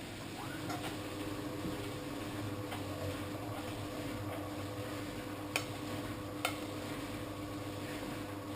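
Old washing machine running mid-cycle: a steady motor hum with a churning, watery noise, and two sharp clicks a second apart near the middle.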